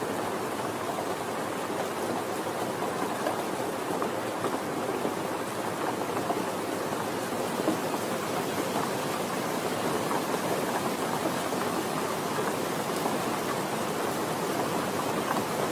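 Steady rain falling, an even hiss flecked with the small ticks of individual drops.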